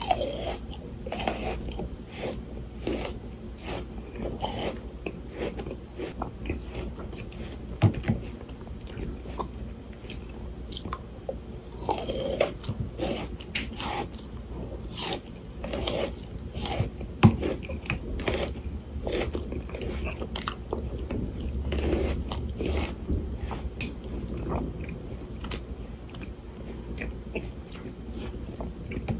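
Close-miked biting and chewing of frozen Shine Muscat grapes: frozen flesh crunching and crackling in many short strokes, with two sharper louder cracks, one about eight seconds in and one about seventeen seconds in.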